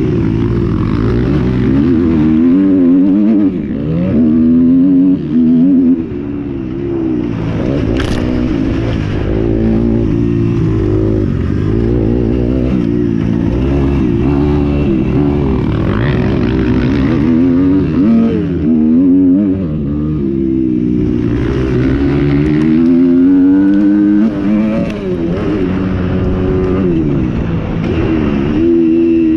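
Several motocross bikes racing, their engines revving, the pitch repeatedly climbing and dropping with several bikes overlapping. A single sharp click comes about eight seconds in.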